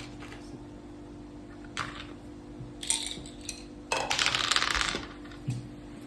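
Backgammon checkers clicking down on the board a few times, with about a second of dice clattering as they are rolled, a little past the middle.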